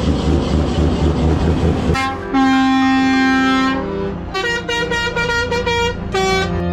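A heavy truck's engine rumbles for about two seconds. Then its air horns cut in with a long held chord, followed by a run of shorter blasts at changing pitches, like a multi-note musical horn playing a tune.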